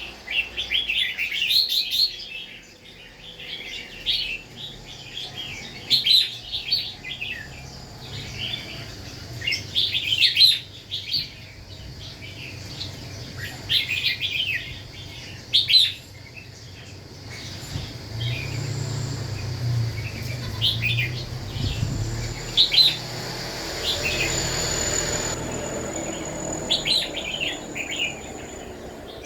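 Red-whiskered bulbuls singing, short bright chirpy phrases repeated every second or two.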